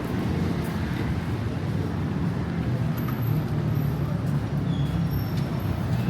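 City street traffic: a steady low rumble of passing vehicles and road noise, with a few faint short high tones over it.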